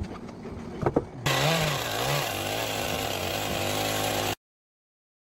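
A few knocks, then from about a second in a chainsaw engine starts up, its pitch rising and falling before it settles into a steady run. It cuts off abruptly near the end.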